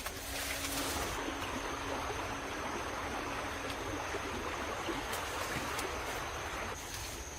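Water rushing in a stream, a steady even noise without breaks.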